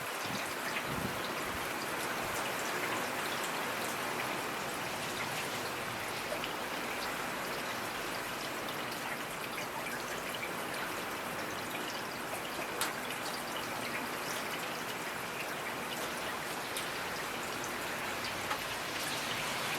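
Steady rainfall, an even hiss with many individual drops ticking close by.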